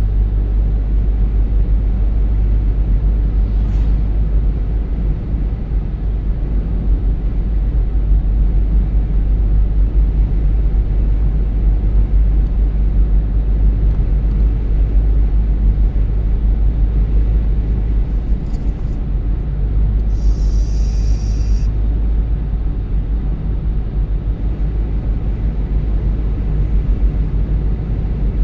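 Steady low rumble of a car driving, with road and engine noise heard from inside the car. A short high-pitched tone sounds once, about two-thirds of the way through.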